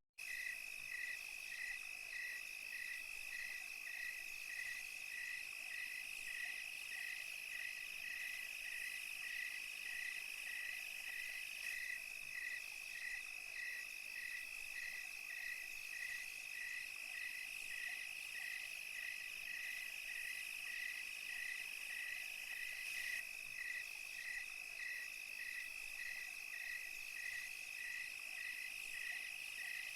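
Night chorus of crickets and other insects: one steady high trill, with a second caller pulsing evenly a little more than once a second and a fainter high hiss of further insects above. A momentary dropout right at the start.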